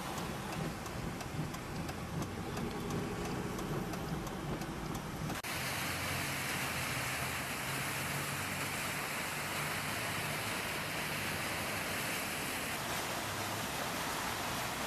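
Storm noise from a hurricane: a steady rush of wind-driven rain. In the first few seconds it is mixed with a low vehicle engine hum, then it cuts suddenly to an even, unbroken rush.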